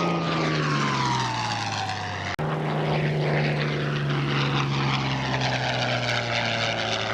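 Messerschmitt Bf 109 fighter's piston engine and propeller flying past, the engine whine dropping in pitch as it goes by. There is a brief cut about two and a half seconds in, then a steady engine drone with a whine that slowly falls in pitch.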